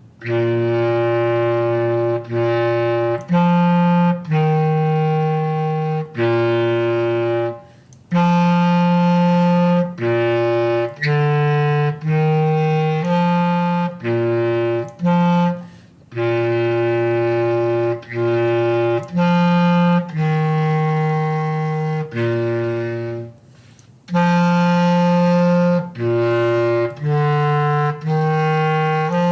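Bass clarinet playing a very slow melody alone: a line of held single notes, each a second or two long with short breaks between them, in phrases that pause about every eight seconds.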